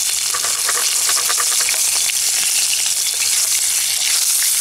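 Squid frying in hot oil in a small enamel pan: a steady sizzle, with quick clicks and scrapes of a utensil turning it against the pan, most of them in the first couple of seconds.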